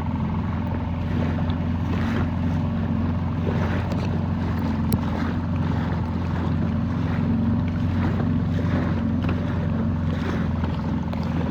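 Dinghy outboard motor running steadily under way, with water splashing and wind on the microphone.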